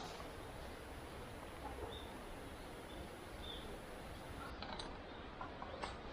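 Faint outdoor woodland background: a steady noisy hush with a few brief, faint high bird chirps, and some light rustling clicks near the end.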